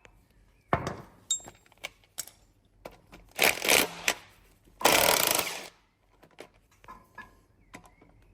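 Two short bursts from a power tool working on engine bolts, with scattered clicks and clinks of tools and metal parts between them.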